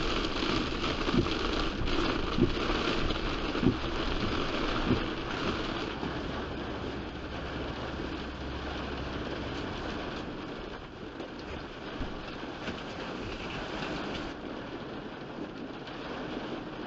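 Heavy rain on a moving car, with the steady hiss of the downpour and road noise. Over the first five seconds a sharp thump comes about every 1.2 seconds, and a low rumble drops away about halfway through.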